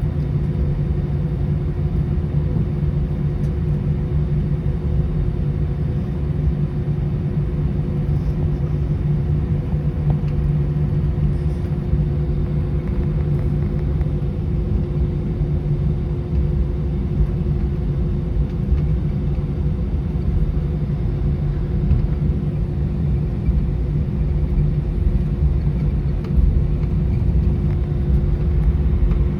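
Airbus A319 cabin noise: a steady low rumble with a constant engine hum and a couple of steady tones, unchanging throughout.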